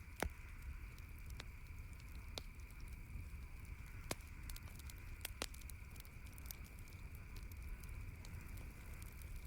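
Campfire crackling, with irregular sharp pops and snaps, the loudest about a quarter second in, over a steady low background rumble and hiss.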